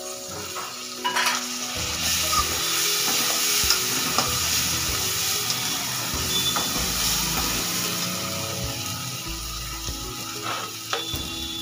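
Chopped tomatoes sizzling as they fry in hot oil with onions and spices in a steel kadhai, the sizzle swelling about a second in. A steel spoon stirs through them, with scattered clicks and scrapes against the pan.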